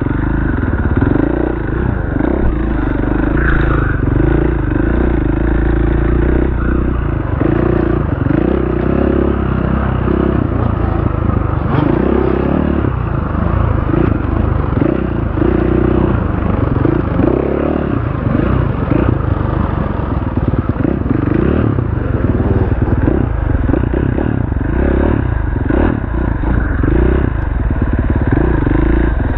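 Enduro dirt bike engine running loud, its revs rising and falling again and again as it is ridden.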